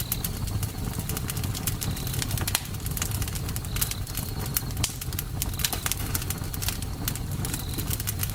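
Campfire crackling: many irregular sharp pops and snaps over a steady low rumble of burning wood.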